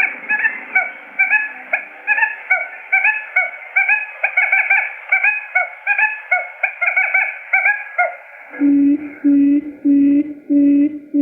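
Quail lure call recording: a fast run of short chirping notes for about eight seconds, then a switch to a steady series of low hooting notes, about one and a half a second.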